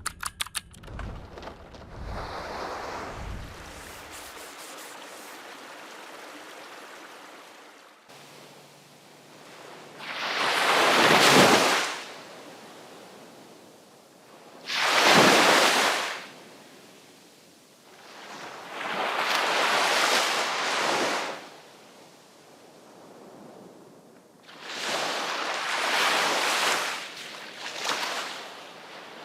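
Sea waves breaking on the shore, one every four to five seconds, each surge swelling up and then washing out; it opens with a few clicks and low thumps before the surf begins.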